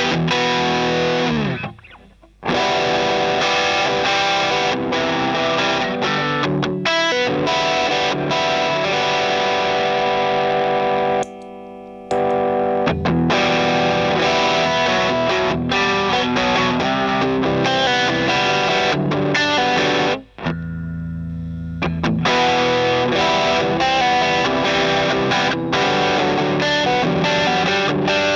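Electric guitar played through an overdrive pedal: driven chords and riffs, breaking off briefly about two seconds in and again about eleven seconds in, with a quieter held chord around twenty seconds in.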